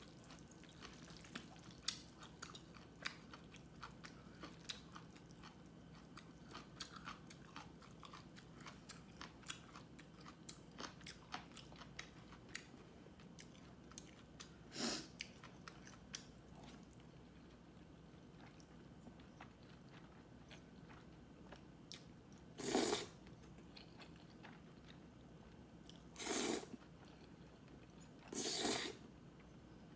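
A person chewing food close to the microphone, with many small mouth clicks and smacks, then four louder crunching bites in the second half.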